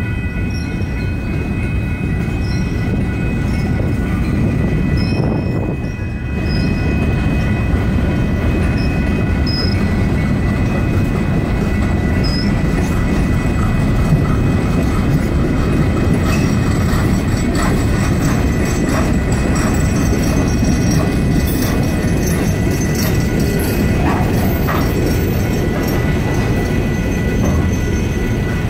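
Freight cars rolling slowly over a grade crossing: a steady low rumble of wheels on rail, with a few short wheel squeals in the first half. Under it, the crossing's electronic bells ring on.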